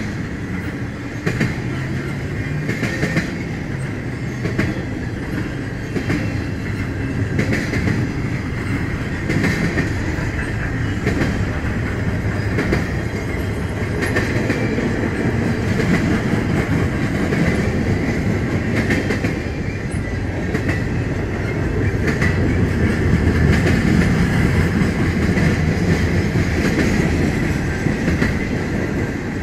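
Intermodal freight train cars rolling past at speed: a steady rumble of wheels on rail, with a continuous clickety-clack over the rail joints, growing a little louder near the end.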